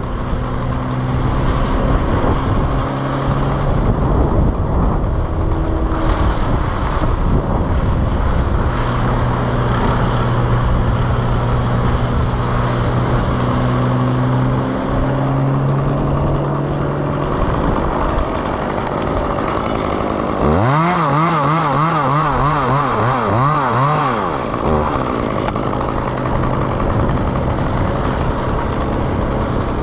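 Wind buffeting the microphone over a steady engine hum. About two-thirds of the way in, a chainsaw is revved up and blipped rapidly for about four seconds.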